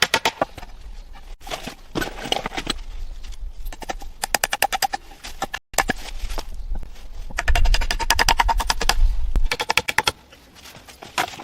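Rapid runs of sharp knocks, several a second, in bursts with short pauses between them; a low rumble underlies the bursts for a couple of seconds past the middle.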